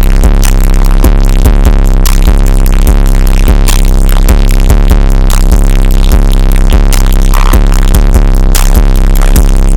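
Very loud, bass-heavy electronic music with a drum-machine beat, played through a car stereo's two JL Audio 13W7 subwoofers. A deep, steady bass line runs under the evenly spaced beat.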